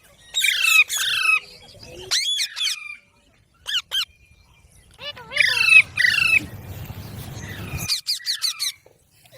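Parrot squawking in several screechy bursts whose pitch slides up and down, with a few sharp clicks in between.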